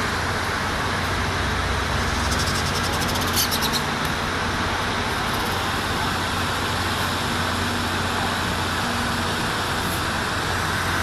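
Steady outdoor background rumble with a low hum under it. A quick run of sharp high clicks comes about two to four seconds in.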